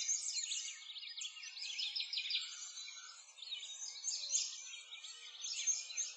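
Chorus of many small birds chirping and singing at once, a dense continuous tangle of quick high chirps with no pause.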